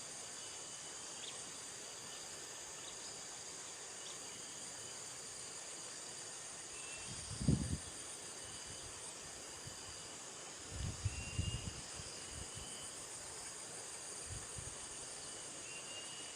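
Steady chorus of insects, crickets or cicadas, trilling in high bands, with a few faint short chirps above the background. Two brief low thumps, about seven and eleven seconds in, stand out above the chorus.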